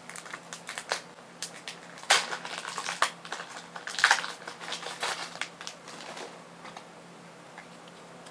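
Crinkling and rustling of a foil trading-card booster pack and its cards being handled, in irregular bursts that thin out after about six seconds, over a faint steady hum.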